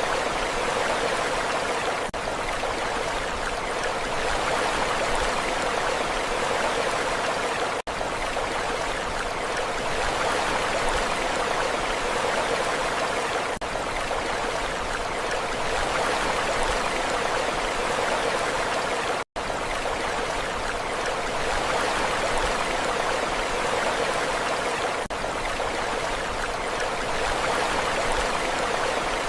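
Steady rushing water, an even hiss with no distinct wave surges, broken by a momentary dropout about two-thirds of the way through.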